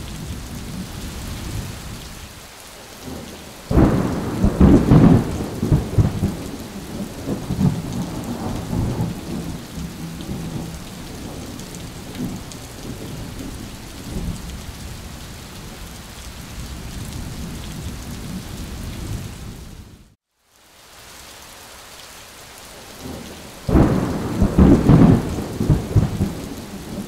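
Thunderstorm: two sudden loud thunderclaps, about 4 s and 24 s in, each rumbling on for several seconds, over the steady hiss of falling rain. The sound cuts out for a moment about 20 s in.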